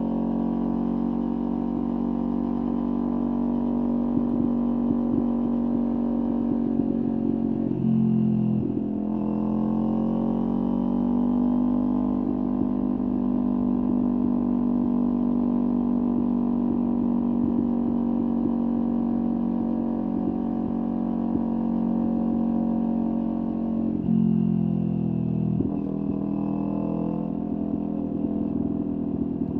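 Kawasaki Ninja 400 parallel-twin engine through a LeoVince aftermarket exhaust, running under way at a steady pitch. Its note dips and then climbs again about eight seconds in, as with a gear change, and falls away in steps near the end as the bike slows.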